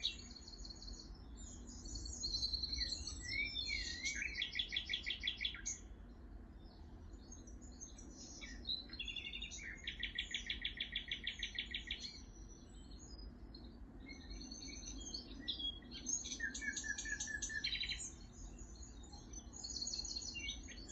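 Several wild birds singing and chirping, with fast rapid trills and varied high chirps overlapping, over a faint low rumble.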